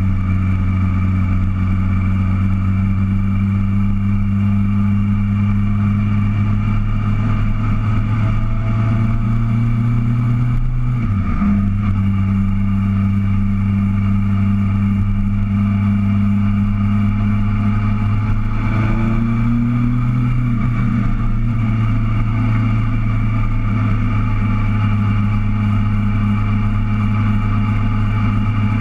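Motorcycle engine running steadily under way, heard from on the bike. The engine note drops briefly about a third of the way in, then picks up, and rises a little about two-thirds of the way through.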